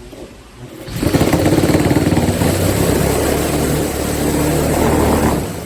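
Makita JR3051T corded reciprocating saw running, with a steady motor hum and fast rattling blade strokes; it starts about a second in and stops near the end.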